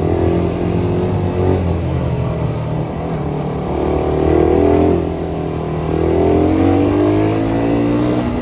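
Suzuki Satria FU 150 single-cylinder four-stroke engine running with a steady low drone, revving up twice: once around the middle and again a little later.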